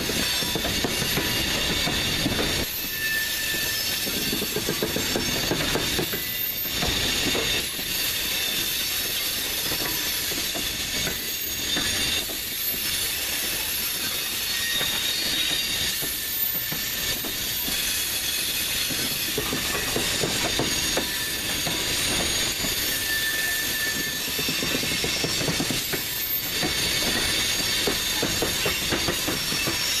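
Freight train tank cars rolling past steadily, their wheels clattering over a rail diamond crossing, with brief high wheel squeals on the curve.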